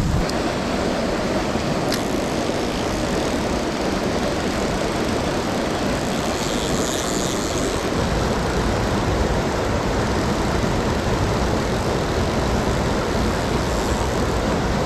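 Mountain stream rushing over rocks: a steady, even roar of flowing water, with a single faint click about two seconds in.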